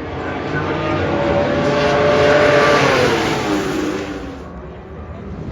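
Racing motorcycle passing at speed: the engine note builds to its loudest about two and a half seconds in, then drops in pitch and fades as it goes by.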